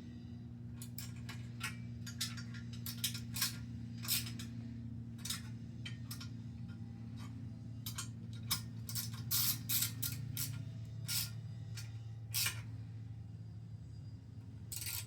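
Irregular sharp metal clicks and taps of a hand tool tightening the bolts of a billet exhaust end cap on a motorcycle muffler, over a steady low hum.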